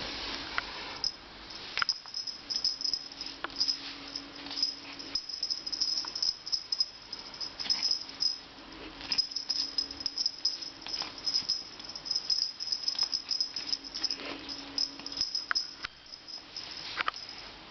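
Small dog chewing and gnawing a dragon toy: irregular clicks and crunches throughout.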